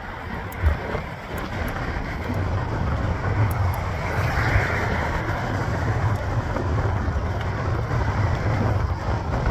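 Wind buffeting the microphone and road noise from a moving mountain bike, a steady low rumble with a brief swell about halfway through.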